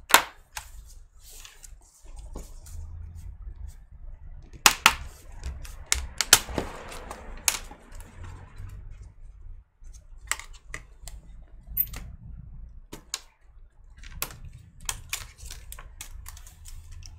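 Irregular sharp clicks and knocks of a laptop's plastic case and parts being handled and pried at while the keyboard is worked loose, over a faint low hum.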